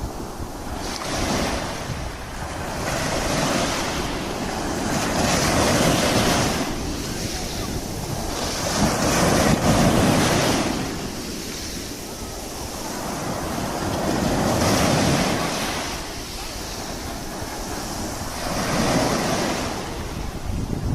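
Sea surf: waves washing in and drawing back, swelling and fading every four or five seconds, with wind rumbling on the microphone.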